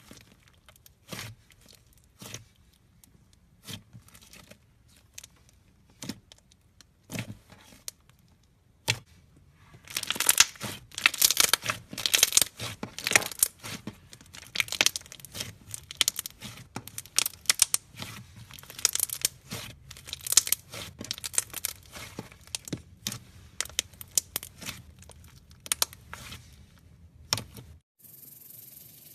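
Slime packed with styrofoam foam beads being worked, crackling and popping. Scattered single pops come first, then dense continuous crackling from about ten seconds in until shortly before the end, followed by a brief hiss.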